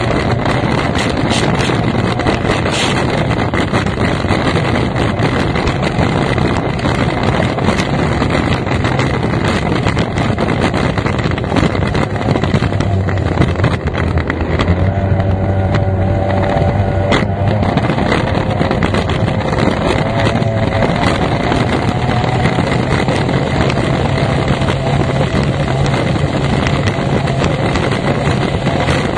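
F1 powerboat's racing outboard engine running hard at speed, with rushing wind and water noise over it. Its pitched engine note stands out more clearly about midway through.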